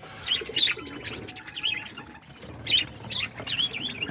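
A flock of budgerigars chattering, with many quick chirps overlapping throughout, and a few fainter, lower notes underneath.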